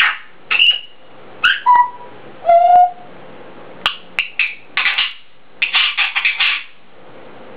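African grey parrot calling: a string of short whistles and gliding whistled notes with a few sharp clicks, then two quick runs of short raspy chattering notes in the second half.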